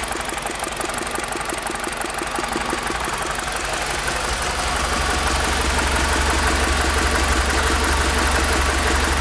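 BMW E46 318i four-cylinder engine running steadily at about idle; about halfway through its low drone grows louder.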